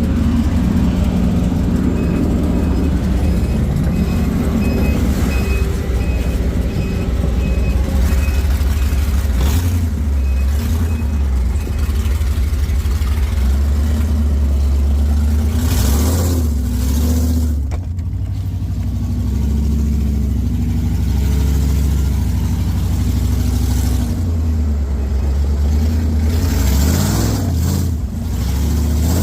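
Truck engine running steadily under load, its pitch rising and falling several times. A faint, evenly repeating beep sounds over the first ten seconds or so.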